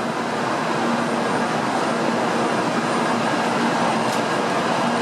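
Shinkansen train moving along the platform: the steady rushing run of its cars and wheels, building slightly over the first second and then holding even.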